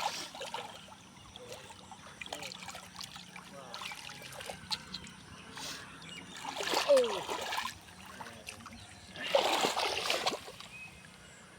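Water splashing and sloshing as hands work through shallow muddy water, with two louder splashes about six and nine seconds in.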